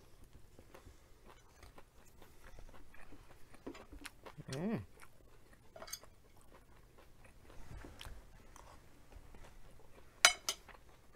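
Close-up chewing and crunching of crisp fried food, with many small wet mouth clicks. A short hummed 'mm' comes about halfway through, and two sharp clicks near the end are the loudest sounds.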